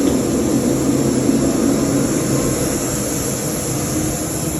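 Steady hum and hiss of a parked airliner's machinery, with a constant high whine over a low drone.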